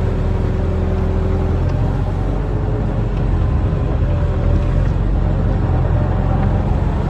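Diesel engine of a barge-mounted excavator running steadily under load as it works.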